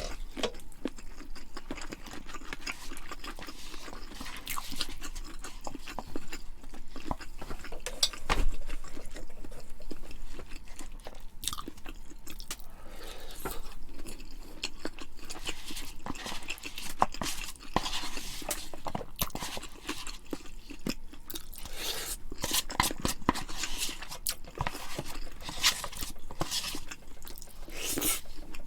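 Close-miked eating: steady chewing with many small, irregular clicks, and one louder dull knock about eight and a half seconds in.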